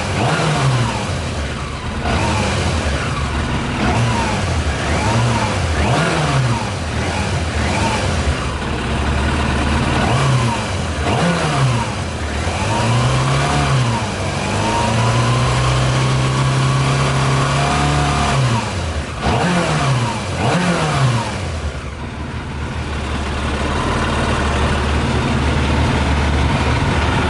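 Yamaha YZF 600R inline-four engine running on 40% whisky in the tank, revved in a series of short throttle blips with one longer held rev in the middle, then settling to idle near the end. It is running funny, a bit different from normal.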